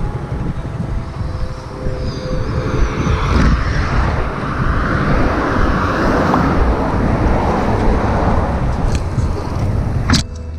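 Steady motor vehicle running and road noise, a constant low rumble, with a sharp click near the end.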